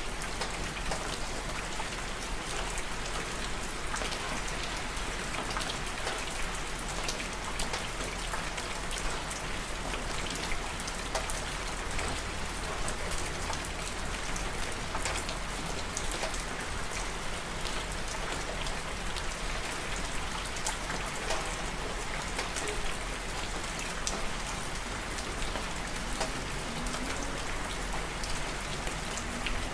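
Steady rain falling, with many individual drop hits clicking through an even hiss.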